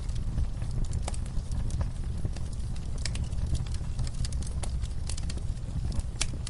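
Wood fire crackling in a fireplace: irregular sharp snaps and pops, some louder than others, over a steady low rumble of the flames.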